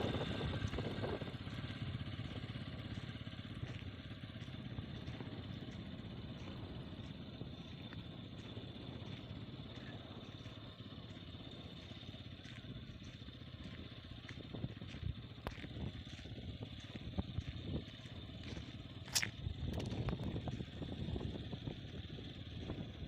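Bajaj Pulsar 200cc motorcycle's single-cylinder engine running steadily on the move, with a short sharp click near the end.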